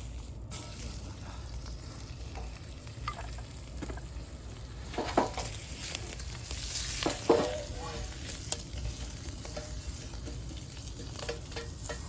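Food sizzling in a large iron frying pan over a wood fire, the hiss starting up about half a second in, with a few sharp knocks and scrapes of a utensil stirring in the pan.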